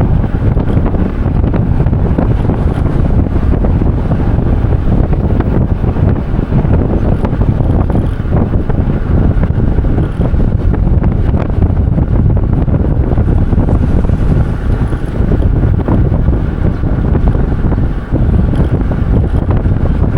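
Loud wind buffeting the microphone: a steady, gusty rumble with no clear tone.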